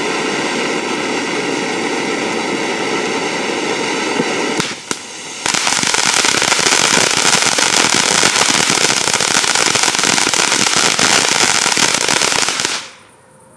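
Triplex Kitty F2 ground fountain firework spraying with a steady hiss. About five seconds in it dips briefly, then comes back louder with dense crackling for about seven seconds and stops abruptly near the end as the fountain burns out.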